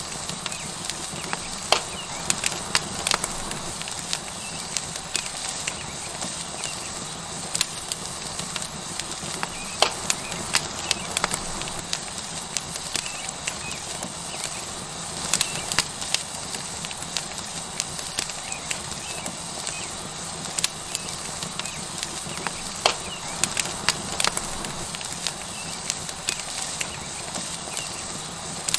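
Tomahawk steak sizzling on a hot rock over a wood fire: a steady hiss with sharp crackles and pops scattered irregularly through it.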